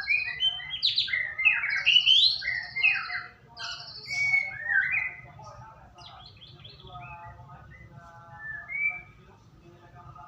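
White-rumped shama (murai batu) singing a rich, varied song of rapid whistles, trills and rising and falling sweeps, loud for the first half, then softer lower repeated phrases, over a steady low hum.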